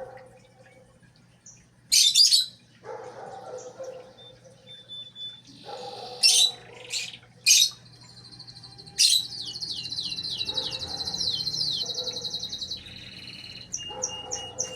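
Small birds chirping: sharp high calls about two seconds in, several more between six and seven and a half seconds, and another at nine, then a fast, high trill with quick falling notes lasting a few seconds.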